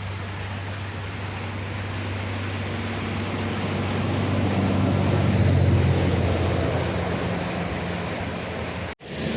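A low engine drone over a steady wash of noise, growing louder to a peak about five or six seconds in, then easing off; it cuts off suddenly near the end.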